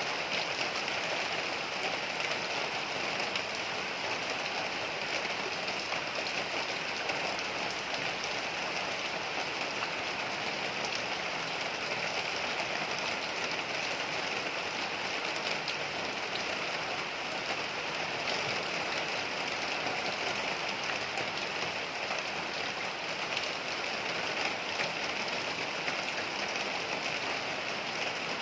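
Heavy rain falling steadily, a dense even hiss with fine pattering of drops striking hard surfaces.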